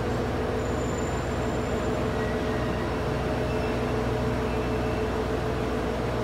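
Freight train of container flat wagons creeping to a stop, over the steady multi-tone hum of a GV-E400 diesel-electric railcar idling beside it. A few faint, brief high squeals come in the first few seconds.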